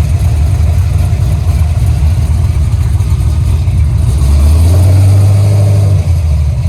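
A car engine running over a heavy low rumble. About four seconds in it revs up, rising in pitch, holds for a second or two, then drops back.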